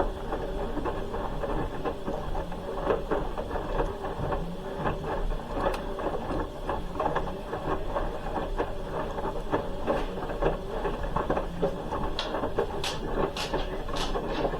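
Hoover H-Wash 300 Plus front-loading washing machine partway through its wash cycle, the drum turning with the load and water, full of small irregular clicks. A few sharper clicks come near the end.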